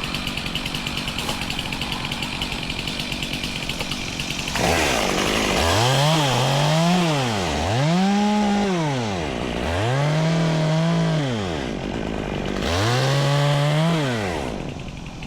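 Two-stroke chainsaw revving up and easing off four times as it cuts tree limbs, each cut a rise and fall in pitch lasting about two seconds. Before that, for the first few seconds, an engine idles steadily.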